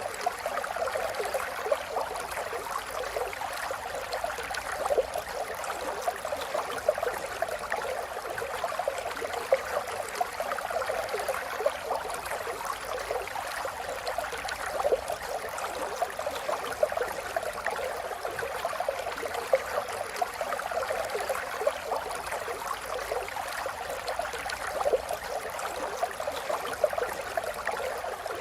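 River water flowing steadily, with a constant babbling and gurgling of small ripples over stones and no deep rushing roar.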